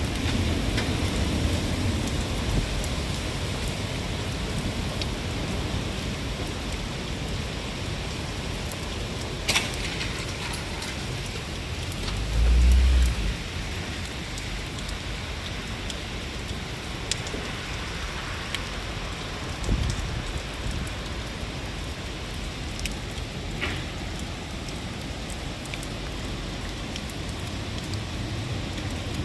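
Steady typhoon rain falling, an even hiss with occasional sharp ticks. About twelve seconds in, a loud low rumble lasts about a second.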